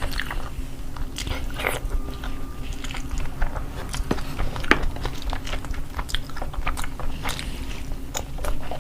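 Close-miked chewing and mouth smacks of someone eating biryani, curry and naan: irregular wet clicks and smacks a few times a second over a steady low hum.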